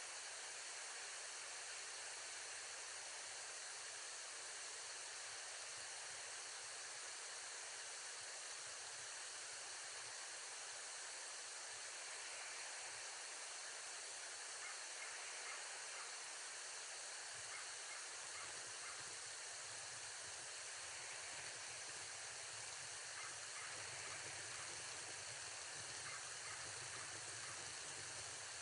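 Steady outdoor hiss, with faint scattered ticks in the second half.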